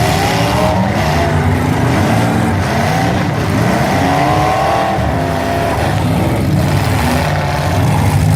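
Several vehicle engines running hard, their pitch rising and falling as they rev, over a steady low engine sound.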